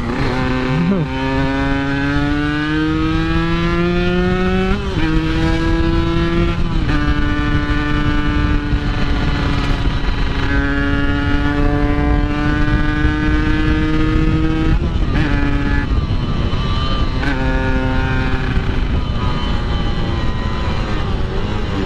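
Yamaha RX-King's single-cylinder two-stroke engine revving hard on the move: a couple of quick throttle blips at the start, then the pitch climbs steadily in each gear and drops at each of several gear changes.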